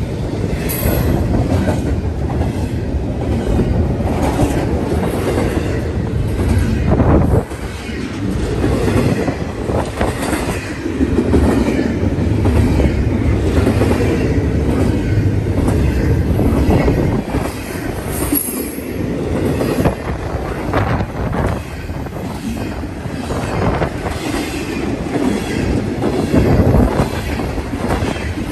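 Railroad cars rolling past close by, their wheels clicking steadily over the rail joints, with brief high wheel squeals twice.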